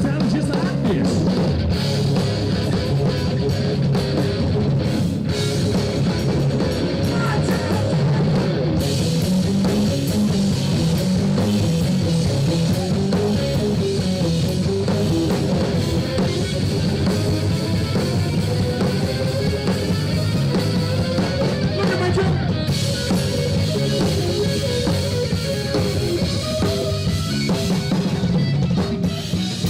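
Live rock band playing an instrumental break with no singing: drum kit and bass keeping a steady beat under a lead melody line that slides up and down.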